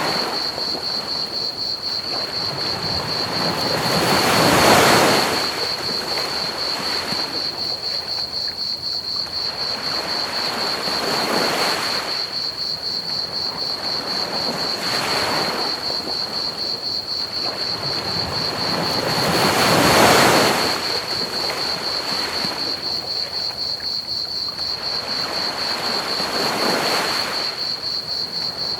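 Ocean waves breaking on a beach, surging up and falling back every few seconds, the two biggest about 5 and 20 seconds in. Under them runs a steady high-pitched cricket chorus chirping rapidly, over an even hiss of pink noise.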